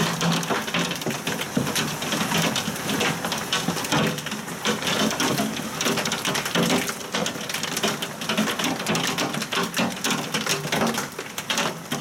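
Heavy rain from a thunderstorm beating down on hard surfaces: a steady rush of water with a dense, continuous run of small sharp drop hits.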